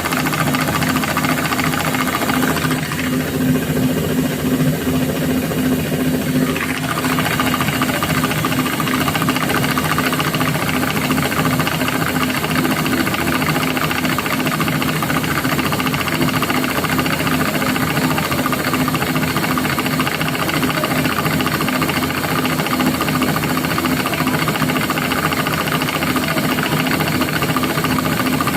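Thomson washing machine running with a steady motor hum and a whirring noise, unbroken throughout.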